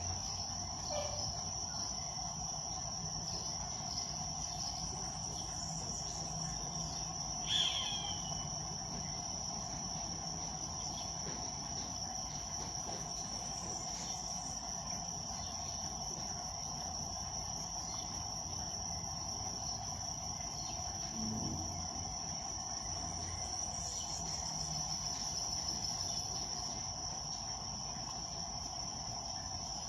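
Insects trilling steadily in a high-pitched chorus, with one short falling bird call about seven and a half seconds in.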